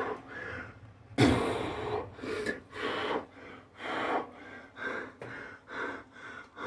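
A man breathing hard and gasping for air, out of breath from an all-out set of Navy Seal burpees: quick heavy breaths about one to two a second, with one big, long gasp about a second in.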